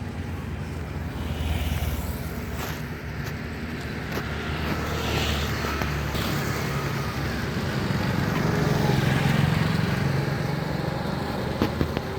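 Road traffic: motor vehicles running past with a steady engine rumble that swells about two-thirds of the way through, and two short clicks near the end.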